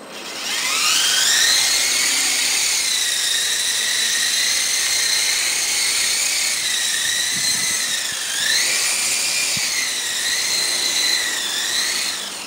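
Small electric motors and rotors of a coaxial RC model Apache helicopter whining at high pitch. They spin up over the first couple of seconds, hold steady, sag and climb again about eight seconds in, and drop off just before the end.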